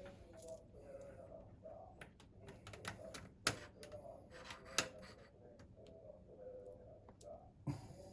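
Irregular sharp clicks and knocks of small hard parts being handled, the loudest about three and a half and five seconds in.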